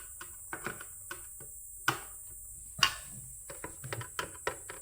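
Irregular small clicks and taps of a screwdriver and screws working on the espresso machine's casing, with two sharper knocks about two and three seconds in and a quick run of small clicks near the end.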